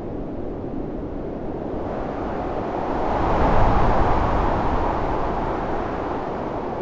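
Storm wind blowing in a steady rush that swells into a stronger gust about three to four seconds in, then eases back.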